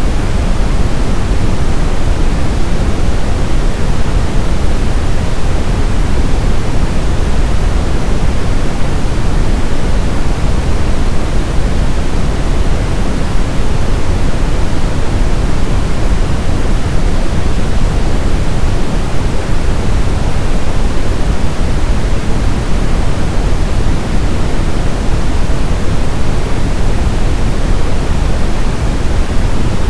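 Steady synthetic brown noise (Brownian, red noise): a deep, even rumbling hiss weighted toward the low end, unchanging throughout.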